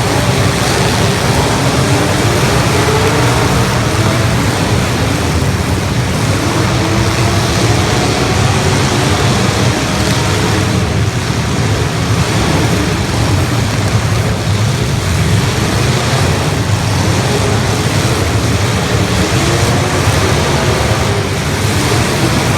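Several demolition derby cars' engines running and revving at once: a loud, steady din of many wavering engine pitches.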